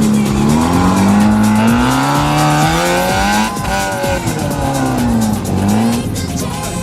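Off-road competition truck's engine revving hard under load, its pitch climbing and falling several times.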